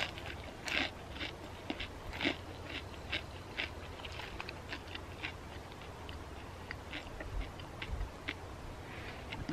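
Crispy deep-fried wonton being bitten and chewed: a sharp crunch at the bite, then many small irregular crunching clicks as it is chewed.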